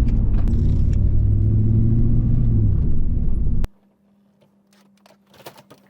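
Pontiac LS1 V8 in a 1998 Firebird Formula WS6 running steadily under way, exhaust through a single muffler-delete pipe with the cats kept; the engine sound cuts off abruptly a little over halfway through, leaving quiet with a few faint clicks.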